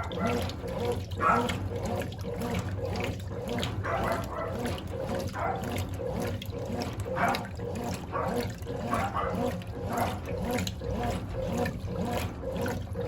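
Brastemp Clean 10 kg top-loading washing machine agitating a full load: water sloshing and churning, with the agitator motor swelling and easing in a steady rhythm about one and a half times a second.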